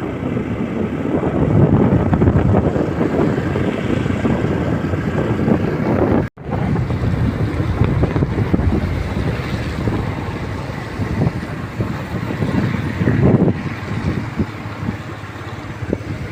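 Steady road and engine noise of a moving vehicle, with wind rushing over the microphone. The sound cuts out for an instant about six seconds in.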